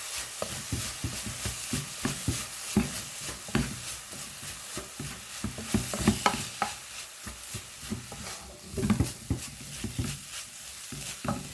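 Rice with beetroot and garlic being stirred in a hot oiled pan: irregular scraping and knocking of the utensil against the pan over a steady sizzle.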